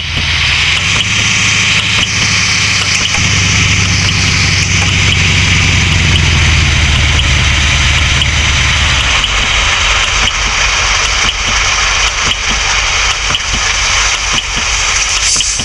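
Truck engine running, with a steady hiss over it. The deep engine hum drops away about nine seconds in, leaving a lower pulsing.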